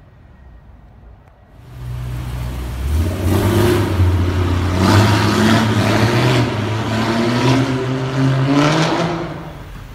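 A BMW M3's engine revs and accelerates in a concrete tunnel. It comes in suddenly about two seconds in, climbs in pitch several times as it pulls, then fades away near the end.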